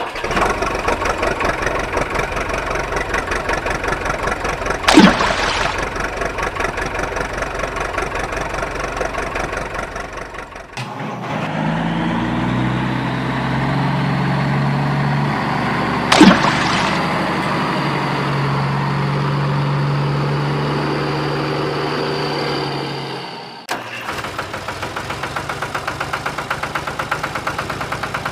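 Mini tractor motor running, in three abruptly cut stretches: a fast, even chatter, then a steadier pitched hum with a faint high whine that rises slightly, then the chatter again. A sharp knock comes twice, about five seconds in and past the middle.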